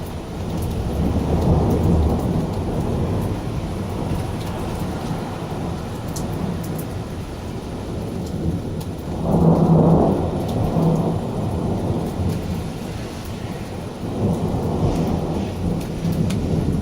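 Thunder rumbling almost without a break, swelling about a second in, loudest around the middle and again near the end, over a steady hiss of rain.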